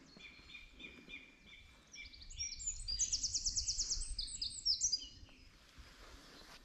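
A songbird singing one long, fast song of rapidly repeated notes, climbing higher into a rapid trill in the middle.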